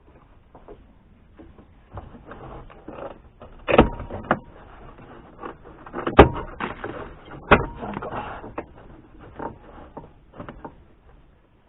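Hands and tools working on car interior trim: rustling and scattered clicks, with three sharp knocks about 4, 6 and 7.5 seconds in.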